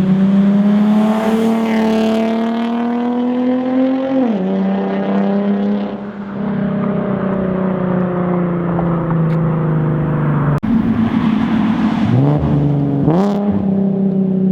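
Nissan 370Z's 3.7-litre V6 through test pipes and a Z1 Motorsports single-exit race exhaust, pulling under load with the revs climbing steadily, then dropping sharply at a gear change about four seconds in. The revs then hold and sag slightly, and dip and climb again quickly near the end.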